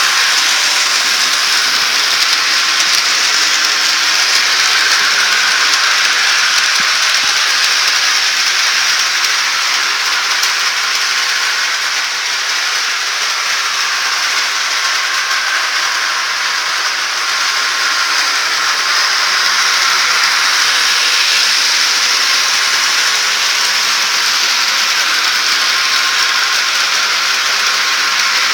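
HO-scale model train running along its track: a steady, hiss-like rolling noise of small wheels and motor.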